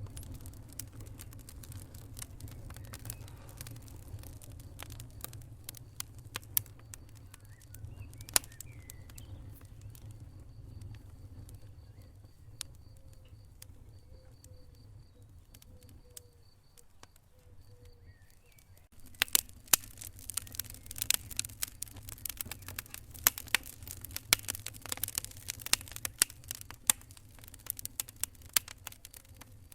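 Wood fire in a fireplace crackling, with irregular sharp pops over a low rumble. The crackling thins out and quietens in the middle, then comes back denser and louder about two-thirds of the way through.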